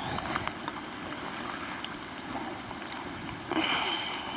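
Footsteps squelching down a muddy, leaf-covered slope in steady rain and wind, with scattered ticks of raindrops. A louder scuffing rustle comes about three and a half seconds in.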